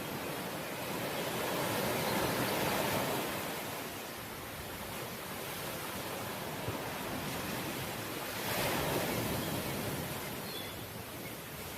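Ocean waves breaking and washing on the shore, surging louder about two seconds in and again, more briefly, near nine seconds.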